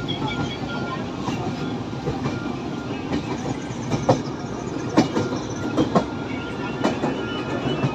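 Train running along the track: a steady rumble and rattle, with sharp wheel clacks over rail joints about once a second in the second half.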